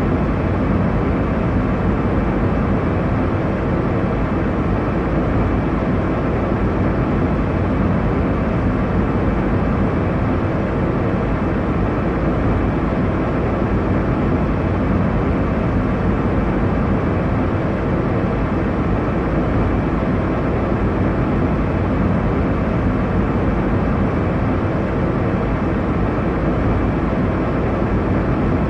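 Airliner cabin noise in flight: a steady, even rush of engine and airflow noise, heaviest in the low end, with no changes.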